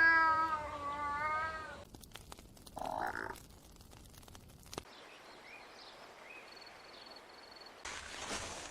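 Domestic cat meowing: one long, wavering meow lasting about a second and a half, followed by a shorter sound near three seconds. Fainter high chirps come later.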